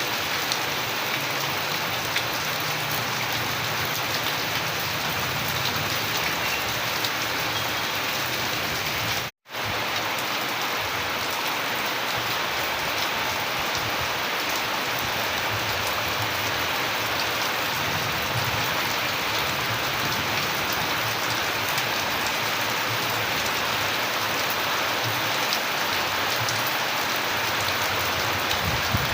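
Steady heavy rain falling, a dense hiss with individual raindrops ticking through it. About nine seconds in it cuts out to silence for a fraction of a second, then resumes.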